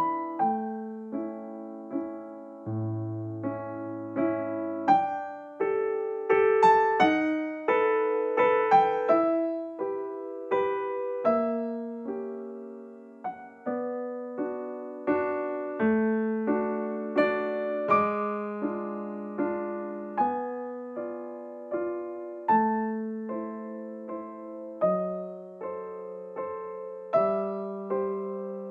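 Gentle background piano music: a slow melody with soft chords, each note struck and fading away.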